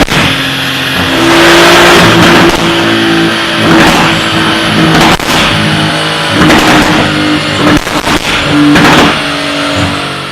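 Porsche 911 Targa 4S twin-turbo flat-six revving in several swells through an Armytrix valvetronic exhaust, with sharp cracks between the revs. It fades out near the end.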